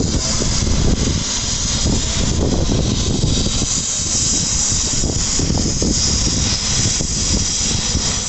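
Helicopter running loud and close during takeoff: a steady turbine hiss over low, rumbling rotor and engine noise.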